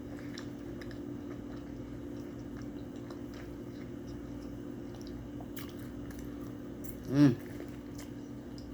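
Close-up mukbang eating sounds: chewing and biting, with soft wet mouth noises and small clicks, over a steady low hum. A short hummed voice sound comes about seven seconds in.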